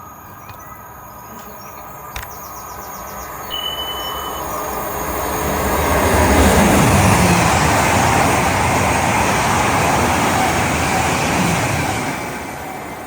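A train passing on the main line: rail and wheel noise builds up, stays loudest for several seconds, then falls away near the end. A short high tone sounds about three and a half seconds in.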